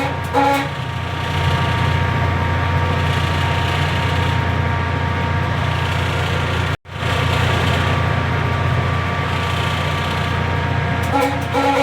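Train's diesel engine running with a steady low drone and a constant whine above it. A short pitched sound comes about half a second in and again near the end, and the sound cuts out for an instant a little before seven seconds in.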